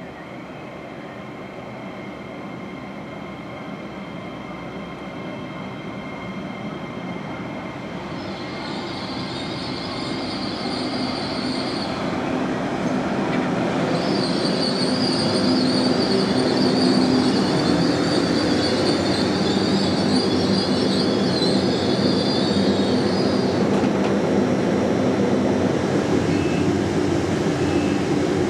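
A train running into the station, its rumble growing steadily louder for about fifteen seconds and then holding. A high-pitched squeal from the wheels comes in about eight seconds in, breaks off briefly, and returns until a few seconds before the end.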